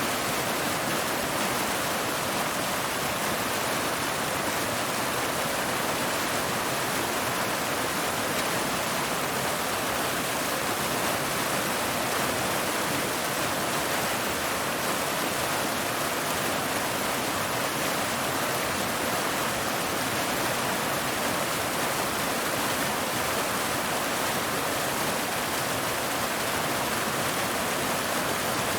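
Waterfall: water falling and splashing over rocks in a steady, unbroken rush.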